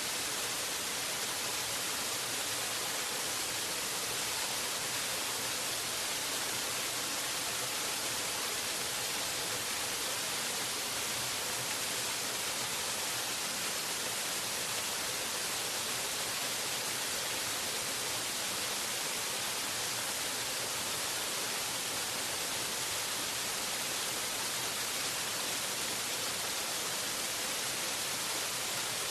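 Waterfall: a steady, unbroken rush of falling water, a bright hiss heavier in the highs than in the lows, with no changes or separate splashes.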